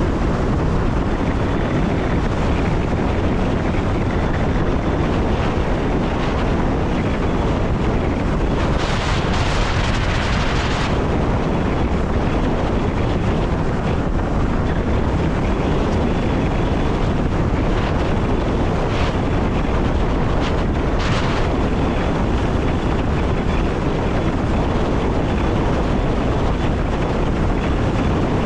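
Running noise of an electric passenger train heard from the driver's cab: a steady rumble of wheels on rail with rushing air. A burst of louder hiss comes about nine seconds in and lasts about two seconds, and a few brief clicks follow later.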